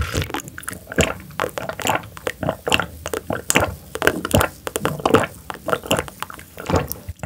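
Close-miked chewing: a person biting and chewing food, with quick irregular mouth clicks several times a second.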